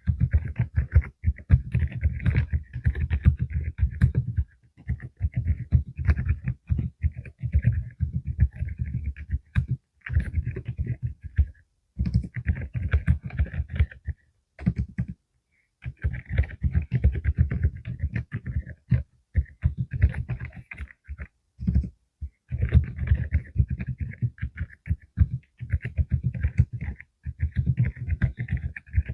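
Full-size mechanical keyboard with Deep Sound low-noise switches being typed on in quick runs of keystrokes with short pauses between them; the keystrokes are deep and muted.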